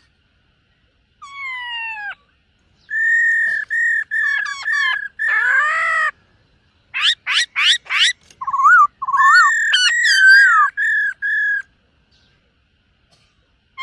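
Black-throated laughingthrush singing loud, clear whistled phrases. It opens with a falling slurred note about a second in, then gives a run of steady level whistles, a burst of fast rising sweeps and warbled notes, and stops about two seconds before the end.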